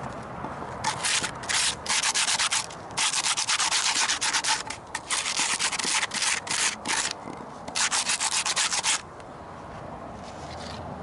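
Sandpaper rubbed on a wooden piece in a run of short back-and-forth hissing strokes, stopping about nine seconds in.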